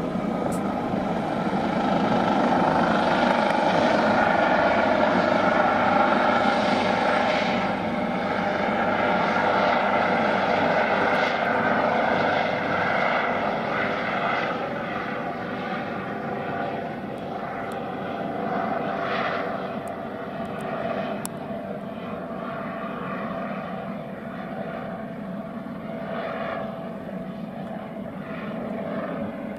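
Airbus H145 helicopter's twin turbines and rotors running with a steady whine of several held tones, loudest a few seconds in and then gradually fading as it moves away.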